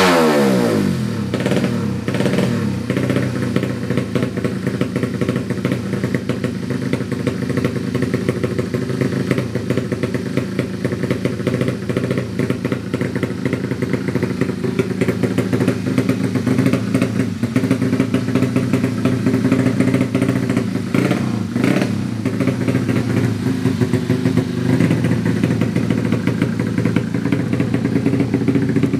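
Yamaha Jupiter motorcycle engine, bored up to 155cc for drag racing, dropping back from a rev at the start and then idling steadily with a fast, even firing beat.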